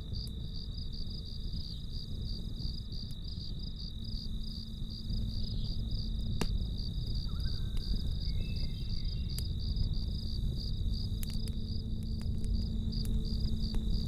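Crickets chirping steadily in quick pulses, about three or four a second, over a campfire: a low steady rush of the flames and sharp crackling pops every few seconds, a cluster of them near the end.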